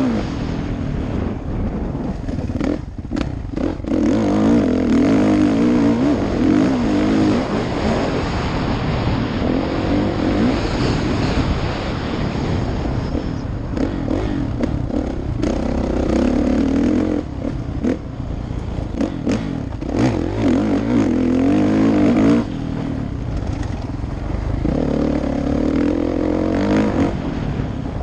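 Kawasaki KX450F dirt bike's single-cylinder four-stroke engine pulling hard off-road. The throttle is opened up and rolled off again every few seconds, with knocks and rattles from the bike over rough ground.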